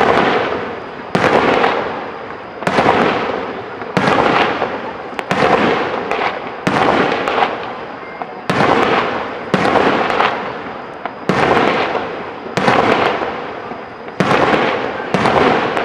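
Aerial firework shells bursting in steady succession, about one every second and a half. Each is a sharp bang followed by a crackling tail that fades over about a second.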